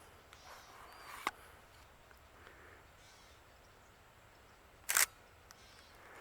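Camera shutter clicking twice: a short, sharp click about a second in and a longer, louder shutter sound near the five-second mark, over faint outdoor ambience.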